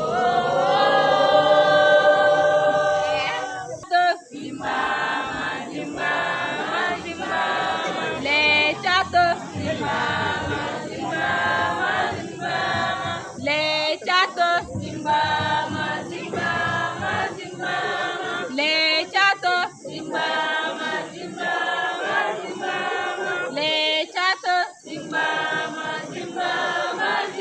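A group of scouts singing together in chorus, unaccompanied. They hold one long note at the start, then go into a rhythmic song line by line.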